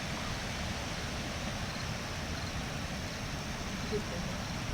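Steady hiss of wind and rain as Hurricane Irene's weather begins to pick up, with a low rumble underneath.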